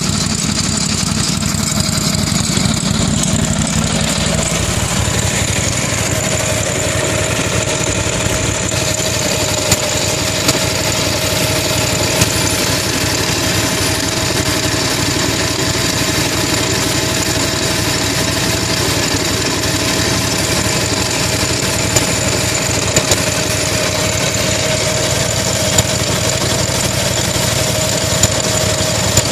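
Gravely 8242 garden tractor running steadily, with a steady whine and a few sharp knocks over the engine noise. This is the noise the owner suspects is a failing clutch bearing: it persists after the clutch on the other side was replaced.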